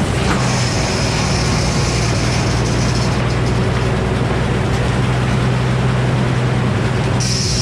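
Frick circular sawmill running under load, an engine droning steadily while the blade cuts a poplar log into boards. Near the end the sound changes as the blade comes out of the cut.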